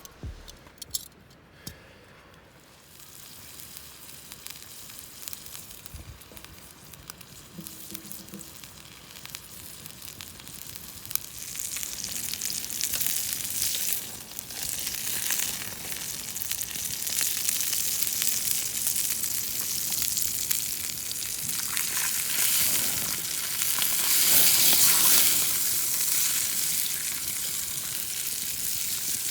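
Food sizzling and frying in a hot pan, starting faint and building to a steady, crackling sizzle.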